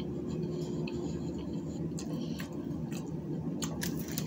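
Mouth sounds of a person chewing a Doritos Locos taco whose shell has gone soft, with no crunch, only small wet clicks and smacks from about two seconds in, over a steady low hum.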